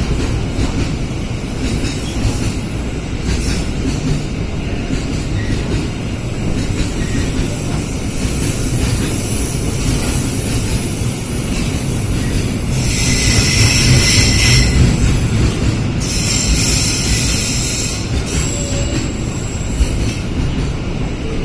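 A train running through a station, its wheels rumbling steadily on the track, with a high screech from the wheels for a few seconds past the middle.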